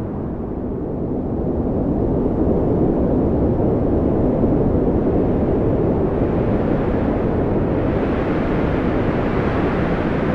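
Strong wind blowing in a steady deep rush, swelling a couple of seconds in and growing brighter and harsher near the end.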